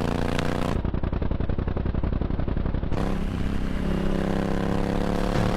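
Motorcycle engine running while riding, with wind noise on the microphone. About a second in, the sound turns to a rapid throbbing for about two seconds, then the steady engine note returns and rises slightly toward the end.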